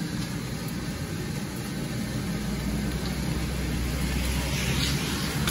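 A car engine running with a steady low rumble that grows stronger in the middle, over a hiss of street noise.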